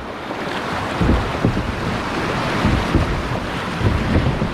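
River water rushing and splashing around a kayak running a rough section, with wind rumbling on the microphone in several short gusts.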